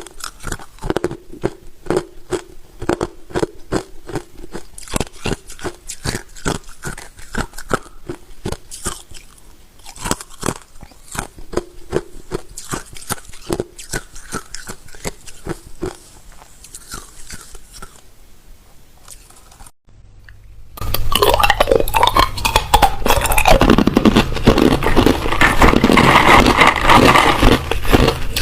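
Hard ice being chewed close to the microphone, crunching in a quick, even rhythm of about three bites a second. About two-thirds of the way in it breaks off briefly, then a much louder, denser crackling crunch with a low hum takes over.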